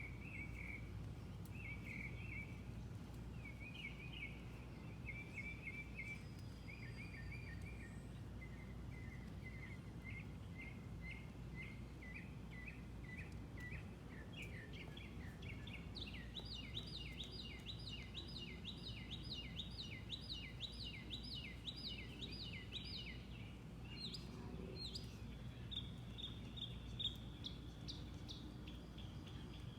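A bird calling in a long series of short, quickly repeated chirping notes, each note dropping in pitch. The notes come in short groups at first, then run together into a steady string that rises higher for a while past the middle, over a steady low rumble of outdoor background noise.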